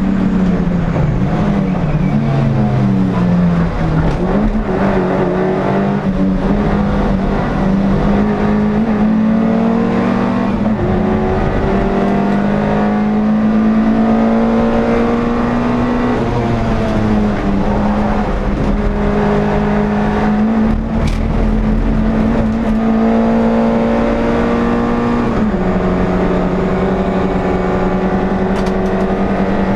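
NSU TT race car's air-cooled rear engine running hard at high revs, heard from inside the car. The pitch dips and climbs again between one and four seconds in, as if through braking and a gear change, then holds fairly steady and steps down once near the end.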